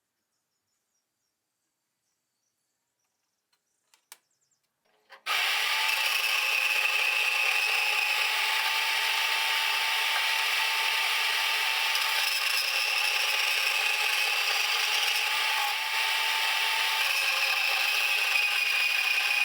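A few faint clicks, then about five seconds in a power tool starts abruptly and runs steadily, a loud even hiss with a steady whine in it.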